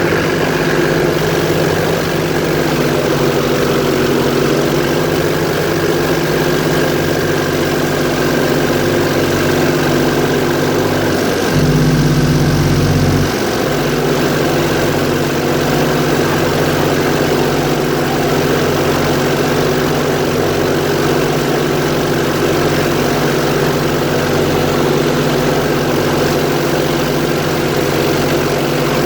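Airboat engine and propeller running steadily. About twelve seconds in, a deeper low rumble briefly swells for under two seconds, then settles back.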